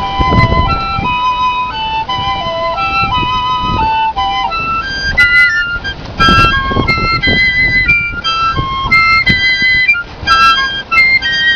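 Two piccolos playing a duet in their high register. The two melodic lines move in quick stepwise notes, sounding together in close harmony.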